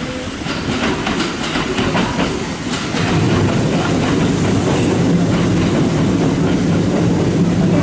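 Kintetsu electric commuter train running out of the station. Its wheels clack over the rail joints and points. About three seconds in, a louder steady rumble with a low hum sets in.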